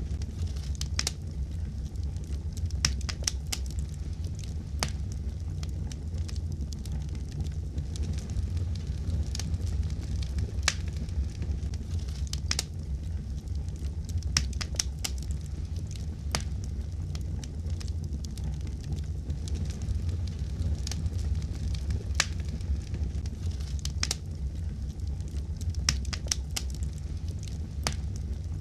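Wood fire crackling in a fireplace: irregular sharp pops and snaps, several every few seconds, over a steady low rumble.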